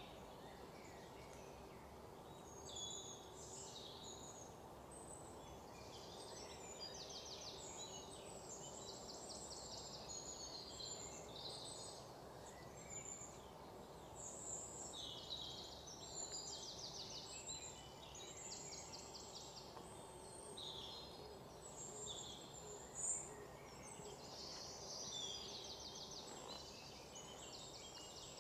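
Several birds chirping and singing, with repeated fast trills, over a faint steady hum.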